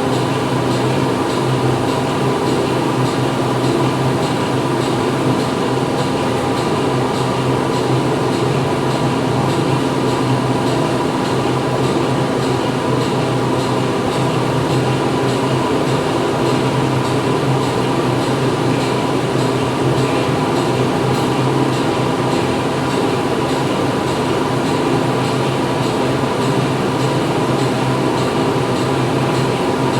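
Factory machinery running steadily: a dense, constant mechanical hum with several steady tones in it.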